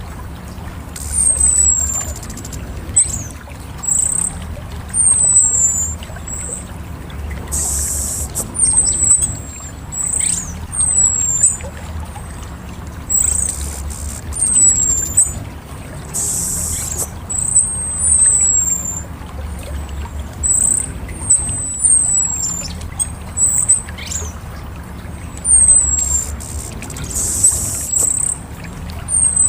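Orange-headed thrush (anis merah) calling: a steady run of short, high, thin notes that slide downward, about one a second, with a brief hiss at three points.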